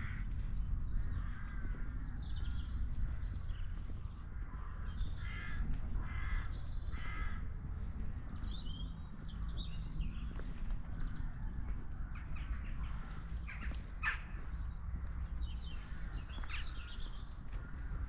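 Birds calling: a harsh, cawing call repeated three times about a second apart around the middle, with lighter chirps scattered throughout, over a steady low background rumble.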